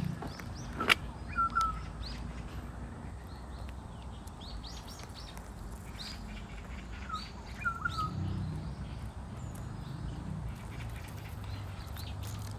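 Birds calling: a short call that drops and then holds a steady note, given twice about six seconds apart, with fainter high chirps between, over a low steady rumble. A sharp click about a second in.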